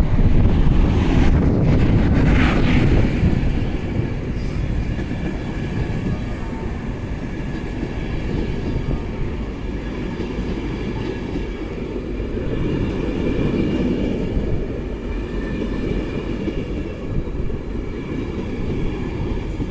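Intercity 225 electric train, a Class 91 locomotive hauling Mk4 coaches, moving slowly along the platform. Its wheels on the rails make a steady low rumble, loudest in the first few seconds, with a short hiss about two seconds in and a faint steady high hum.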